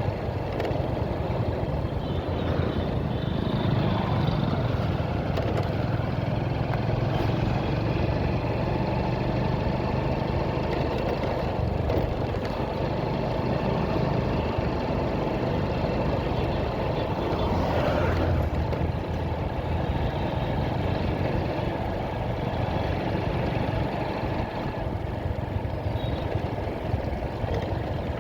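Motorcycle engine running steadily while riding, with continuous road noise.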